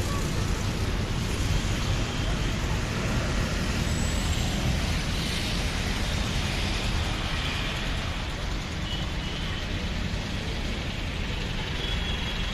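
Steady low rumbling outdoor background noise, even throughout, of the kind that passing road traffic makes.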